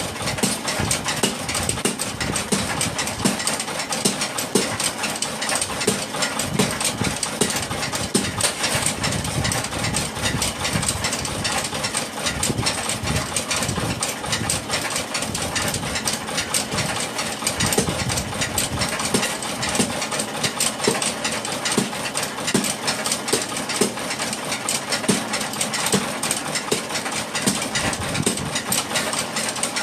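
Workshop machinery running continuously with a fast, even clatter.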